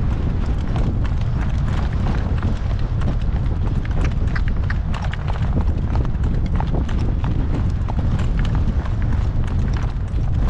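Strong wind buffeting the microphone in a steady low rumble. Over it, a horse's hooves clip-clop in many quick sharp strikes as it moves along.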